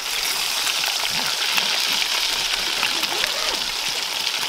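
Food sizzling in a pan on a Trangia spirit stove, a steady hiss with small crackles that swells at the start and holds.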